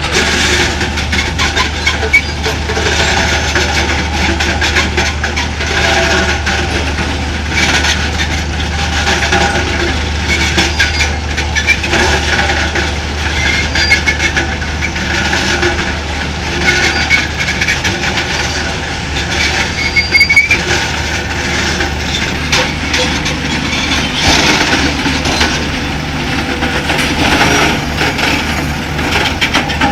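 Uralmash electric mining excavator working: a steady low electric hum under irregular metallic clanking, with a few brief high squeals of metal on metal.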